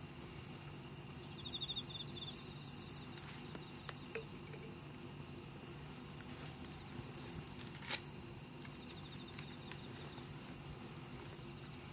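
Insects chirping outdoors in an even pulse, about four chirps a second, with a brief faster trill about two seconds in. A few sharp clicks cut through, the loudest about eight seconds in.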